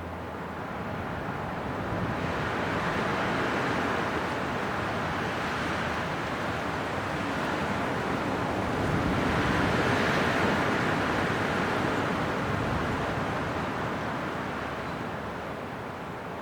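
Winter wind blowing in gusts, a steady rushing that swells twice and eases off near the end.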